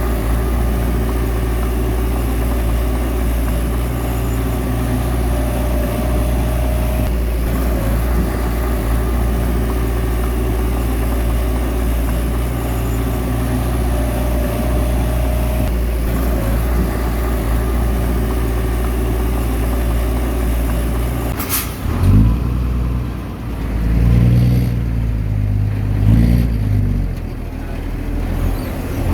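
Heavy diesel engine of a bulldozer running steadily under load, a low, even drone. About three-quarters of the way through, a sharp knock sounds, and the engine then runs lower and uneven.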